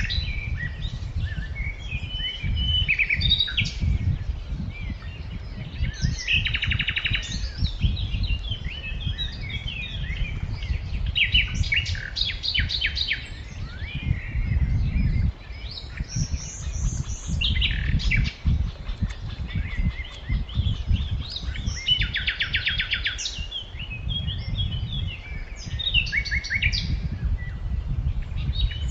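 Several small birds chirping and singing, with a rapid buzzy trill recurring every few seconds, over a steady low rumble.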